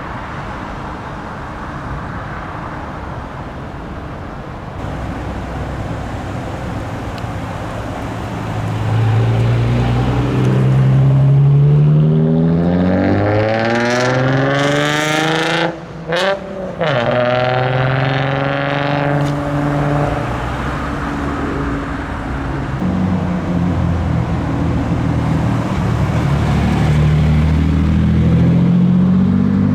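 A car engine accelerating hard, its pitch climbing over several seconds to a loud peak about halfway through, then breaking off briefly twice and carrying on at a lower, fading note. Near the end another engine starts to rise.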